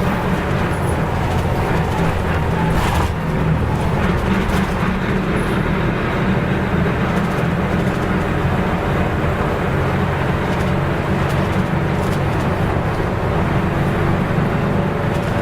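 Nissan Diesel U-UA440LSN city bus under way, its diesel engine and road noise heard from inside the cabin, running at a steady pitch with a brief dip about three seconds in.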